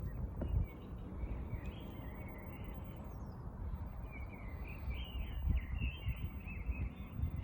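Small songbirds chirping and twittering, many short warbling notes in a row and busiest in the second half, over a steady low rumble of outdoor city noise.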